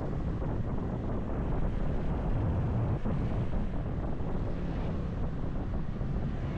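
Wind rushing and buffeting over an action camera's microphone on a moving motorcycle, with the motorcycle's engine running underneath.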